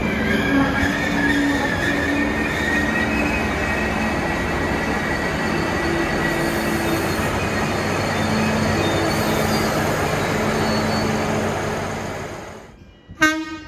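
Hunter railcar diesel multiple unit running past close by: steady engine and wheel-on-rail noise, with a thin wheel squeal in the first couple of seconds. The noise fades out about twelve seconds in, and a short bright ringing transition sound effect follows near the end.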